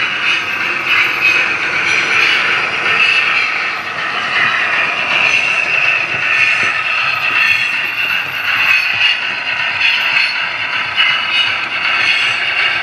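Model railway locomotive running along the track: a continuous whirring rattle of its small motor and wheels on the rails.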